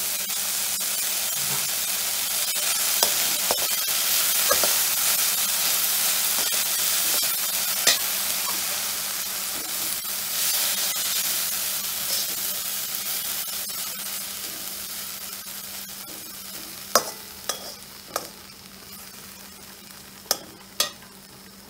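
Chopped French beans sizzling in a hot steel pan while being stirred with a perforated steel spatula; the sizzle fades gradually. The spatula clinks against the pan several times, most sharply in the last few seconds.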